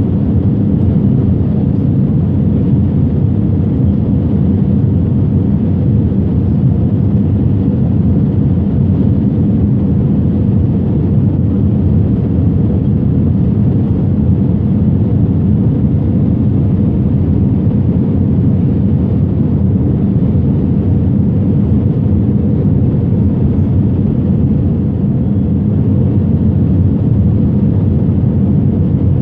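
Steady low roar of an airliner's engines and rushing air, heard from inside the passenger cabin.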